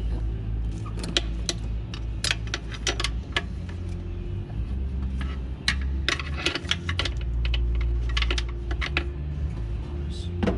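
Irregular metallic clicks and clinks of hand tools and small bolts being worked and handled on the engine, over a steady low hum.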